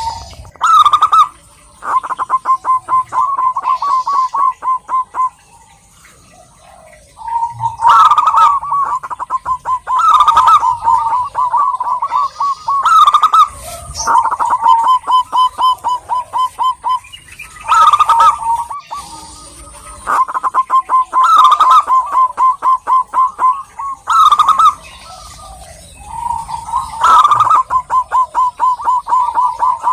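Zebra dove (perkutut) cooing: repeated phrases of rapid staccato coo notes, each phrase a few seconds long, with short pauses between them.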